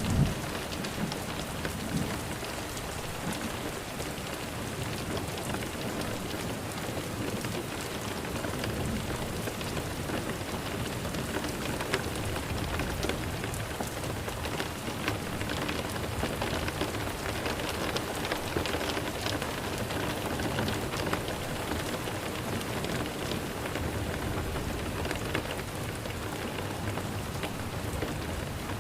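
Steady rain falling: an even hiss dotted with fine drop ticks. A low rumble of thunder dies away right at the start.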